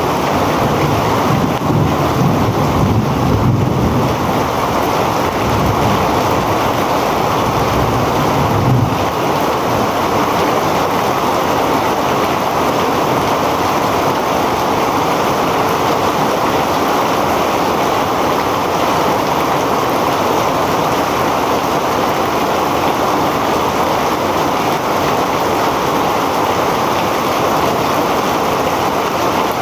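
Heavy rain pouring down in a steady, dense hiss. Through the first nine seconds or so, wind buffets the microphone with a low rumble, which then dies away while the rain keeps on.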